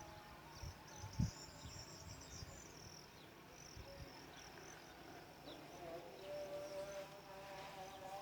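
Faint birdsong: scattered short, high chirps of small birds over a thin high trill, with a single low thump about a second in.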